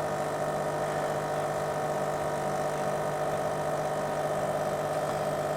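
De'Longhi Eletta ECAM44.660.B bean-to-cup coffee machine running steadily as it dispenses an extra long coffee: an even, unchanging hum.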